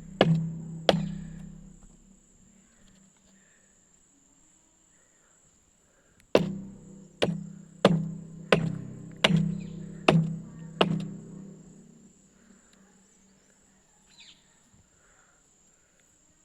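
Hammer blows with a ringing tone after each strike: two at the start, then after a pause of about four seconds a steady run of seven strikes, about one every 0.7 seconds.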